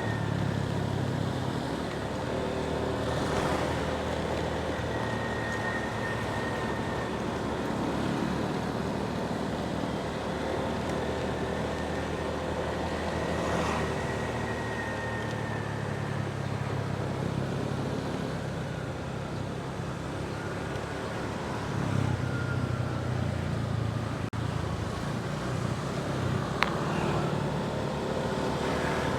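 Motorbike engine running steadily under way, with road and wind noise, its note rising and falling a little with speed. A single sharp click near the end.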